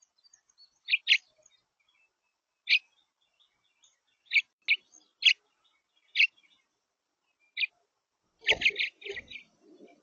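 Songbird giving short, sharp chip calls one at a time, a second or two apart, then a quick run of several chips with a few low thuds about two-thirds of the way through.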